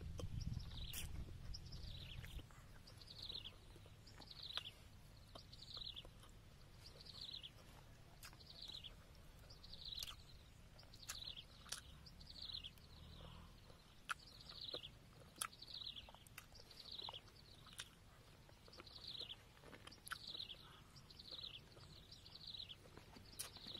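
A bird calling over and over with a short, high, falling chirp, a little more than once a second, with faint scattered clicks.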